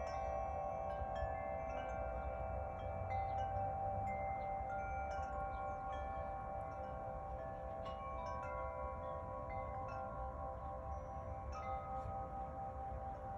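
Wind chimes ringing in the breeze: many clear tones struck at irregular moments, each ringing on and overlapping the others.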